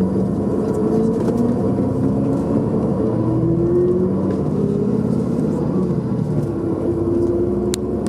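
Engine and road noise inside a moving tour vehicle: a steady low running, with the engine note drifting slowly up and down as it drives.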